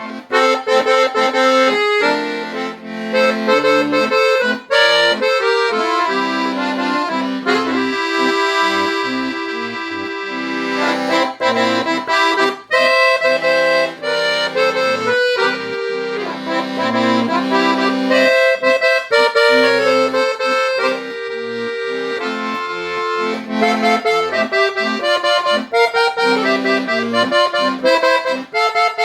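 Solo accordion (sanfona) playing an instrumental melody over chords and bass notes, with long held chords about a third of the way in and again about two thirds in.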